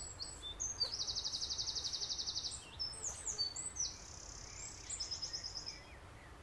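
A songbird singing: high whistled notes broken by two long, very fast trills, the first about a second in and the second near the end.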